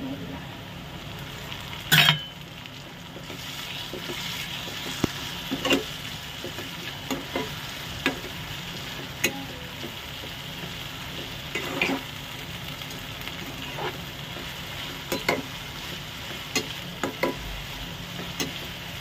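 Sliced onions with green chilli paste and ginger-garlic paste sizzling in hot oil in a non-stick frying pan while being stirred and fried with a stainless-steel slotted spatula. The frying hiss is steady and grows a little louder after about three seconds, broken by irregular clicks and scrapes of the spatula against the pan, the sharpest knock about two seconds in.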